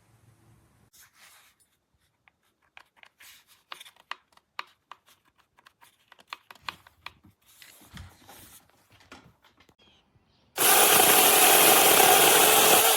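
Scattered light clicks and knocks. About ten and a half seconds in, a small battery-powered brushless chainsaw starts running loudly and steadily, then cuts off at the end.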